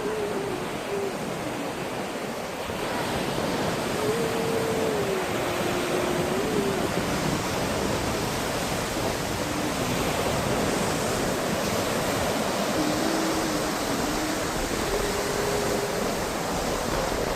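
Ocean surf washing steadily on a beach. A faint, low wavering hum comes and goes twice.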